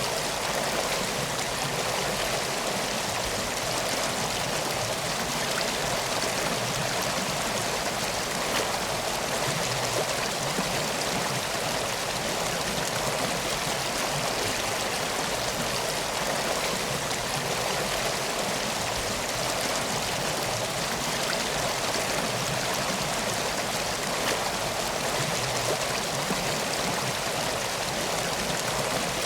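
Steady rush of a flowing river, an even wash of water noise with no breaks.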